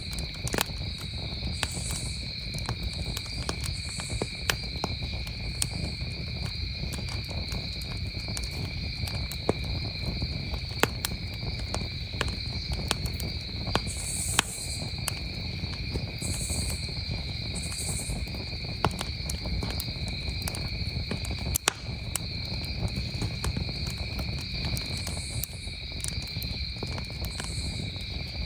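Campfire crackling with irregular sharp pops over a low rustle, against a steady, unbroken chorus of crickets trilling.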